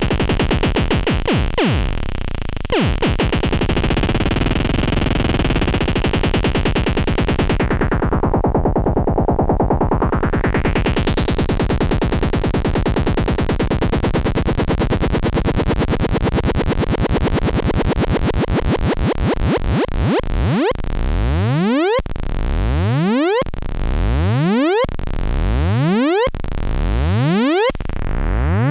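Behringer K-2 analog synthesizer playing a dense buzzing tone, its filter closing down a little after a quarter of the way in and sweeping back open. From about two-thirds in it switches to repeated rising pitch sweeps, about one every second and a half.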